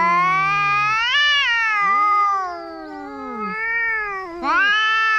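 Two cats yowling at each other in a fight, long wavering overlapping caterwauls, one voice high and one lower. A loud yowl fills the first two seconds or so, eases off, and a second loud one swells about four and a half seconds in.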